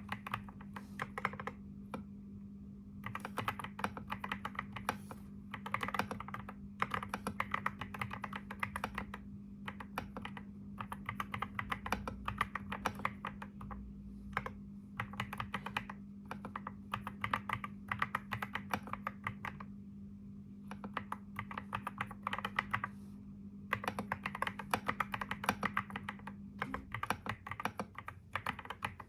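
Typing on a computer keyboard, fast runs of keystrokes in bursts of a few seconds with short pauses between them. A steady low hum sits underneath and stops near the end.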